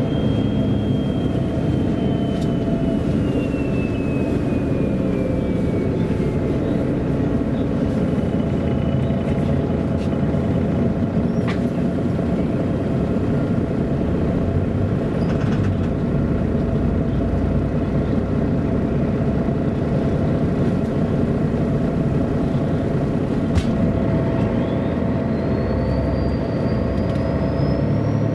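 A MAN A23 NG313 articulated city bus driving, heard from on board: steady engine and road noise. A thin whine slowly falls in pitch over the first few seconds and climbs again near the end, with a few short clicks in between.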